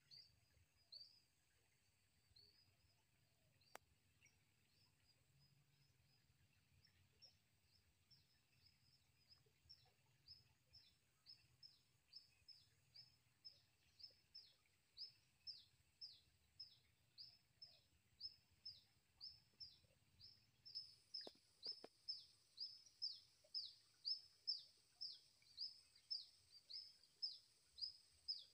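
A bird calling: a short, high chirp that falls in pitch, repeated about twice a second, faint at first and growing steadily louder from about ten seconds in.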